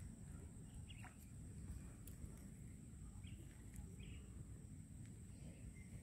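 Near silence: a low steady background rumble with a few short, faint bird chirps.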